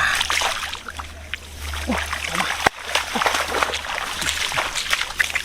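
Water splashing and sloshing in a shallow, muddy rice field, stirred by someone working through it, with one sharp knock about halfway through.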